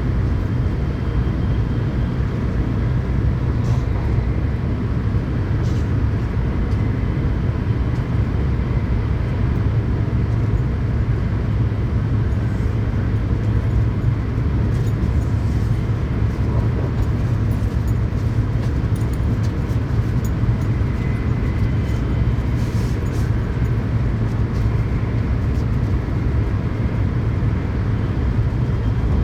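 Tokaido Shinkansen train running at speed, heard from inside the passenger cabin: a steady low rumble of wheels and running gear with an even rushing noise above it and a few faint ticks.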